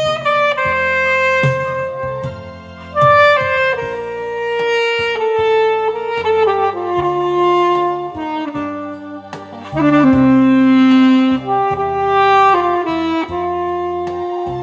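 Alto saxophone playing a slow, stepwise song melody over a backing track with bass and light drums.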